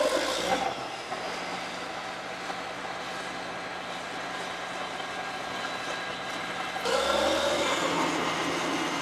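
Vehicle engine running steadily under a constant hum. About seven seconds in, a louder, rougher sound joins it.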